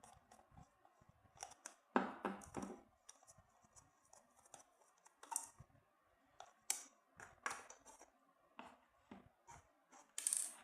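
Plastic casing of a rotating disco-light bulb being opened by hand: scattered clicks, knocks and scrapes, the loudest cluster about two seconds in and a longer rasping scrape near the end.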